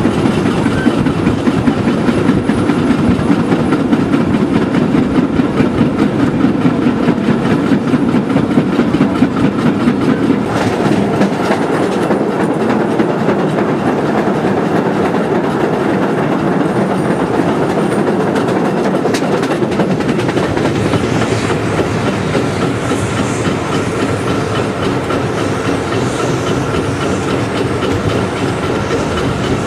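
Narrow-gauge Zillertal steam train heard from aboard a carriage, running steadily with a continuous rumble and the clickety-clack of wheels on the rails. The heavy low rumble eases about ten seconds in.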